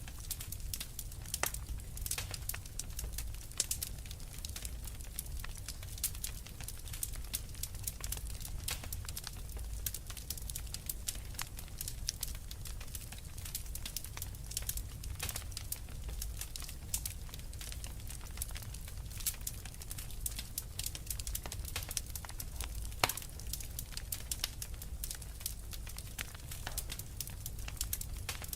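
Fireplace fire crackling: a steady low rumble with many small, irregular pops, and one louder pop about three-quarters of the way through.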